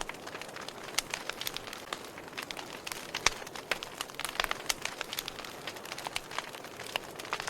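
Wood fire crackling: irregular sharp pops and snaps over a soft hiss, with one louder snap about three seconds in.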